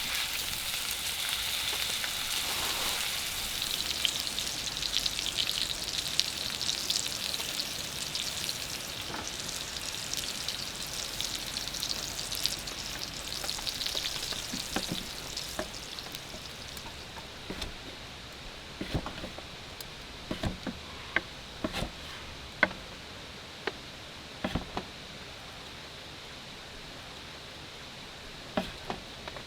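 Food sizzling in a hot pan over a campfire: a steady frying hiss that dies away about halfway through. After it comes a quieter stretch with scattered sharp taps and ticks.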